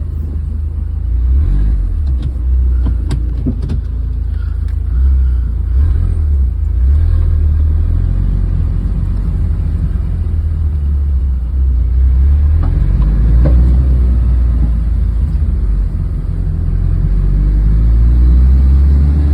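Mid-engine Dodge SRT-4's engine running under light throttle as the car is driven slowly, heard from inside the cabin as a deep, steady rumble that swells and eases.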